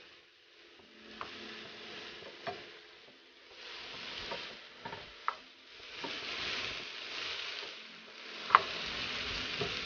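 Diced sweet peppers sizzling in a frying pan as they are stirred with a plastic spatula. The sizzle swells and fades in waves, and the spatula knocks against the pan a few times, loudest near the end.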